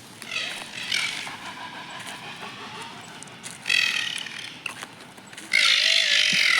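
An animal giving three harsh, squealing calls, a few seconds apart, the last one longest and loudest.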